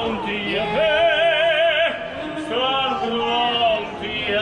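A gondolier singing in operatic style: long held notes with a wide vibrato, in two phrases with a short breath about two seconds in.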